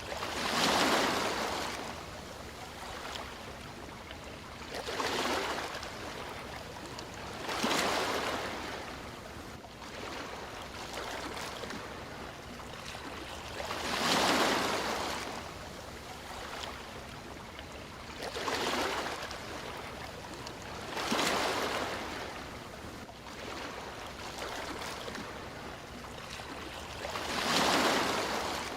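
Sea waves breaking on a shore: about seven surges of surf at uneven intervals of a few seconds, with a steady wash of water between them.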